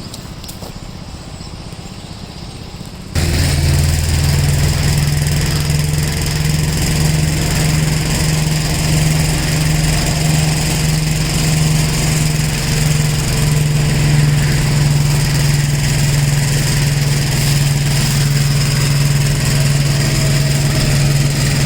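1969 Gravely LI walk-behind tractor's engine running with its mower, quieter for the first few seconds, then suddenly much louder about three seconds in and holding a steady low hum while mulching leaves.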